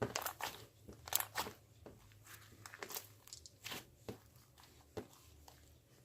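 Crinkling, crunching handling noises: a quick run of sharp crackles that thins out to a few scattered clicks in the second half.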